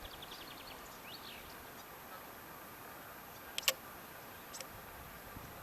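Faint outdoor ambience with small birds chirping: a quick run of high chirps at the start and a short rising-and-falling call about a second in. A sharp double click about three and a half seconds in is the loudest sound, with a fainter click about a second later.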